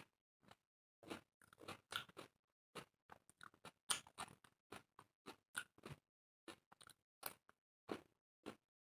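Close-miked eating sounds of people chewing and biting mouthfuls of roti and curry: short, irregular chews separated by silence.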